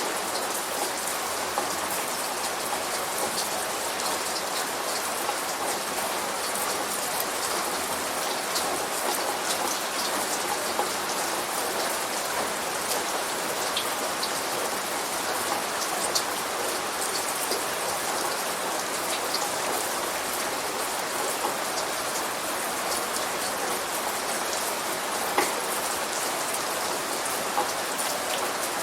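Steady light rain falling, with scattered individual drops ticking close by.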